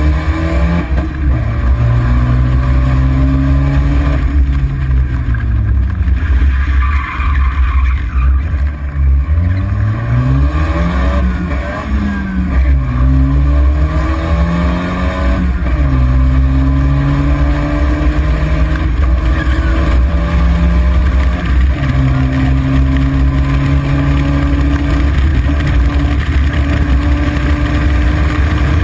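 A car's engine pulling hard down the road, its note climbing and then dropping several times in the first half as the driver shifts and comes off the throttle, then holding steadier at speed. A heavy low road and wind rumble runs under it.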